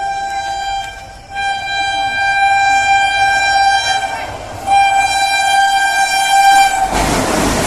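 Train horn sounding in long, steady, single-pitched blasts, breaking off briefly about a second in and again past the four-second mark. Near the end the loud rushing noise of the train passing takes over.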